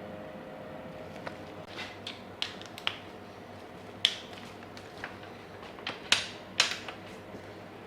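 Scattered sharp metallic clicks and taps of hand tools and fasteners, about a dozen at irregular intervals and loudest near the middle and end, over a faint steady workshop hum.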